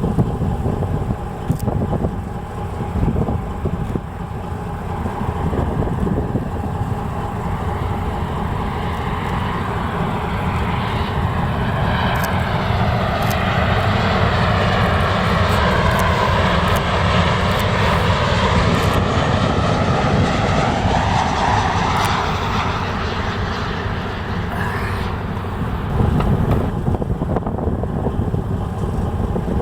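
Jet airliner on final approach passing overhead: its rushing engine noise swells over several seconds, sweeps in tone as it goes by, then fades away. A steady low rumble runs underneath.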